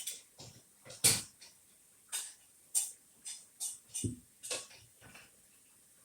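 Tableware clicking and tapping: about a dozen short, sharp clicks at irregular spacing, the loudest about a second in.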